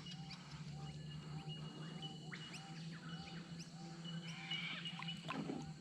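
Faint birds calling in the background: one repeats a short call about three times a second, with scattered higher chirps over it.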